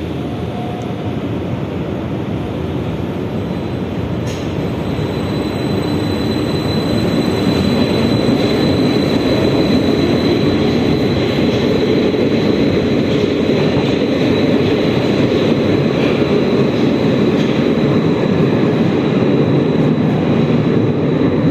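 Metro train running through a tunnel, heard from inside the car: a steady rumble of wheels on rail that grows louder as the train picks up speed about six to eight seconds in. A thin, high, steady whine joins about four seconds in.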